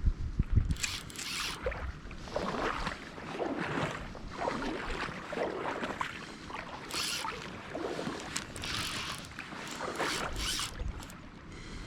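Uneven swishing and splashing of river water while a hooked fish is played, in irregular bursts of a second or two. A low buffet of wind on the microphone at the very start.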